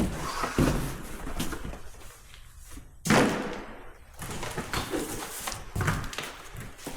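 Cardboard shipping box and packing material rustling and scraping as large car fenders are lifted out, with one loud thump about three seconds in.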